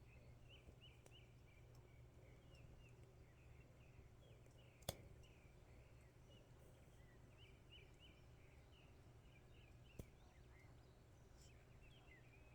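Faint outdoor ambience of small birds chirping in quick, repeated short notes over a steady low hum. A single sharp click about five seconds in, and a smaller one near ten seconds.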